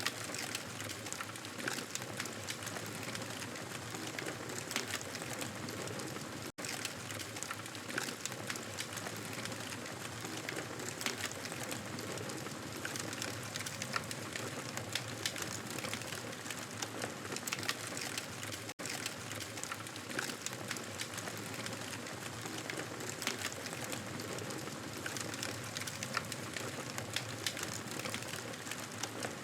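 Wood fire crackling and popping steadily: a continuous hiss dotted with many small sharp pops. The sound cuts out for an instant twice.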